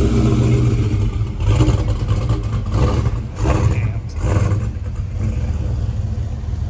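Car engine running with a low, steady rumble.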